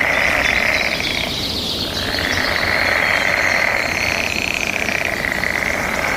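A chorus of frogs calling in the mating season: long, fast-pulsed trills that overlap, breaking off about a second in and starting again, with faint higher chirps above them.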